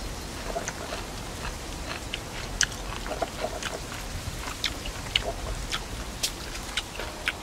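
A person chewing crunchy food, fresh cucumber among it, with many scattered crisp clicks and crunches at no regular rhythm.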